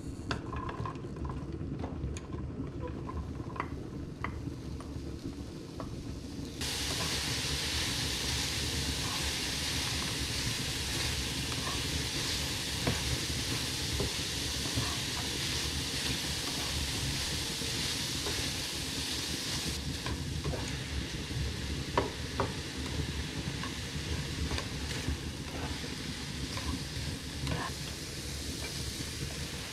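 Sliced mushrooms frying in a pan and being stirred with a spatula. A few scrapes and taps come first, then a steady sizzle starts suddenly about six seconds in, with scattered clicks of the spatula against the pan.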